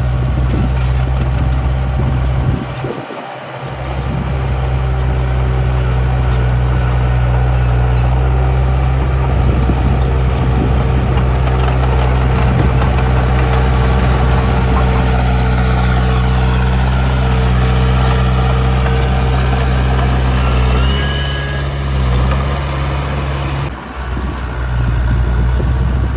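Heavy diesel engine of earthmoving machinery running steadily at a constant note, with brief drops in level about three seconds in and again near the end.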